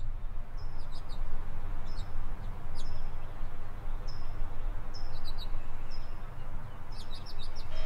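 Songbirds chirping: short, high calls with a falling tail, repeating roughly once a second over a low, steady background rumble.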